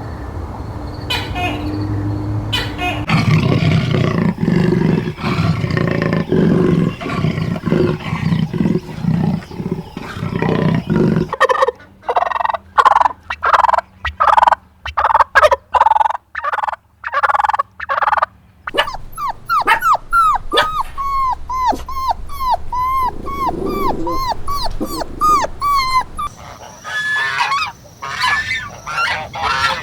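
A run of animal calls that change every few seconds, among them a stretch of short calls repeated about twice a second.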